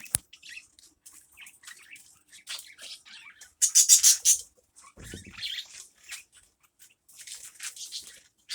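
Small birds chirping in many short, high-pitched calls, with a loud rapid run of calls about four seconds in and a brief low thump about a second later.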